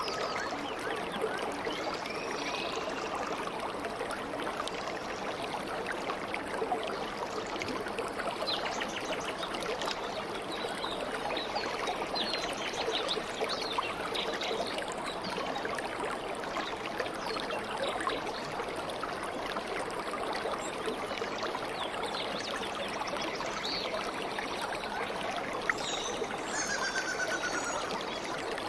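A stream babbling and trickling steadily, with scattered bird calls over it, clearest near the end.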